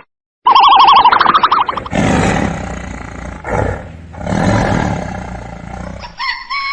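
A short warbling tone, then a large animal's deep, rough roar that swells twice over about four seconds; near the end a run of short, repeated pitched calls begins.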